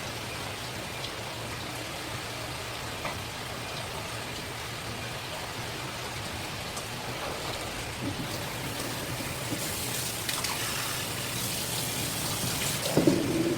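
Steady rush of running water, with a few light knocks and a brief louder clatter near the end.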